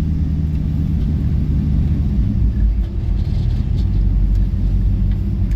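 Car engine running steadily at low speed, a low rumble.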